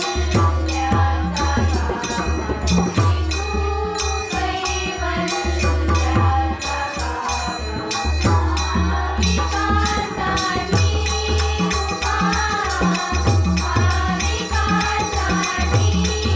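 Marathi devotional bhajan played live: a drum keeps a quick, steady beat with jingling hand percussion, and a women's group sings a melody that comes through more strongly in the second half.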